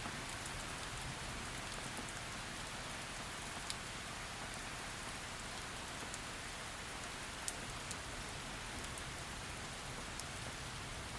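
Steady heavy rain falling on a surface, an even hiss with scattered individual drop ticks, a sharper one about a third of the way in and another past halfway.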